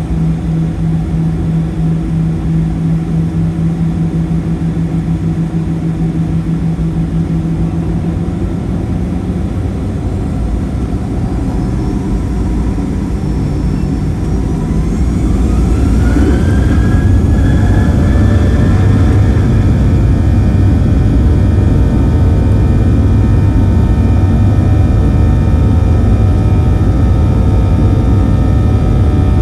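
Boeing 737-900's CFM56-7B turbofan engines heard inside the cabin, spooling up for takeoff. A steady hum gives way about halfway through to a rising whine, then settles into a louder, steady drone at takeoff thrust.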